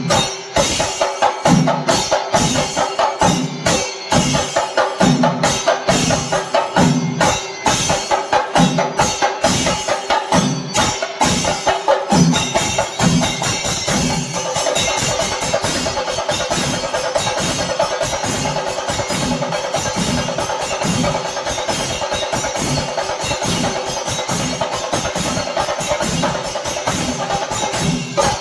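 Kerala chenda melam drum ensemble, stick-beaten drums playing a fast, loud rhythm over a steady low beat. About midway the strokes run together into a dense, even roll.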